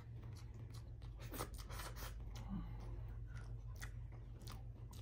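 Close-miked chewing of a mouthful of rice and beef shank, with many short, scattered wet mouth clicks.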